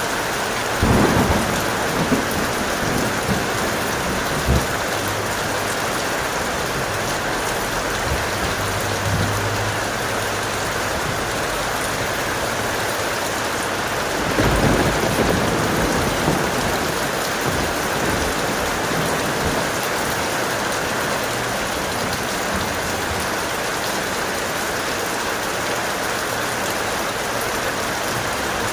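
Heavy rain falling steadily, with two rolls of thunder: a crack and rumble about a second in, followed by a few smaller claps, and another rumble about halfway through.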